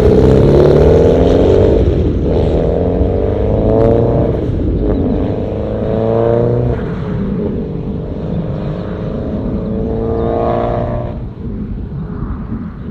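Mitsubishi Lancer Evolution IX's turbocharged 2.0-litre four-cylinder engine heard through its new aftermarket exhaust while accelerating hard. The engine note climbs in pitch and drops back at each upshift, four times, then settles lower near the end.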